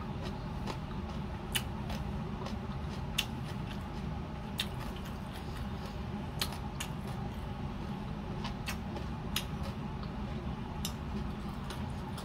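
Mouth sounds of someone eating ripe mango: scattered sharp clicks and smacks of chewing at irregular intervals, over a steady low hum.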